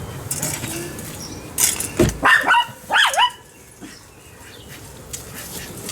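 A small dog barking and yipping several times in quick succession, about two seconds in, each bark dropping sharply in pitch.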